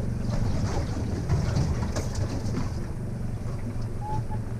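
A boat's engine running steadily with a low, even rumble.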